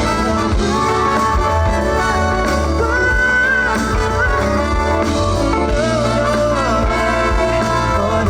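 Live band music: the instrumental close of a song, with bass and drums under held and sliding melody notes.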